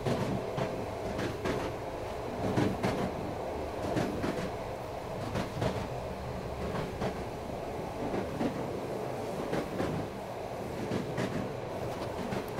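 Train running along the rails: a steady rumble with scattered clicks and knocks.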